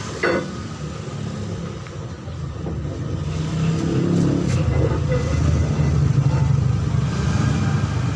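Low, steady rumble of a motor vehicle's engine running, growing louder about three seconds in, with one short knock just after the start.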